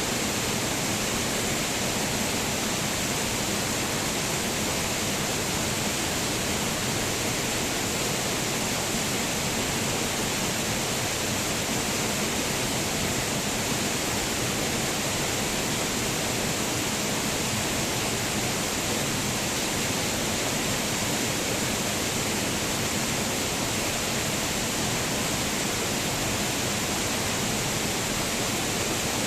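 Waterfall: falling water rushing steadily, an even hiss with no change in level.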